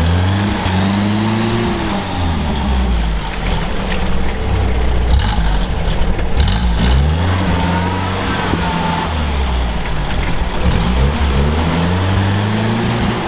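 Off-road vehicle engine revving up and falling back three times in long surges, with a few clicks and a short whine in between.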